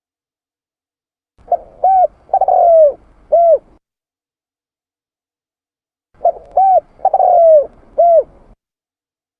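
Spotted dove (tekukur) singing its cooing song twice. Each phrase is two short coos, one longer coo that falls in pitch, and a final short coo, with a few seconds of silence between the phrases.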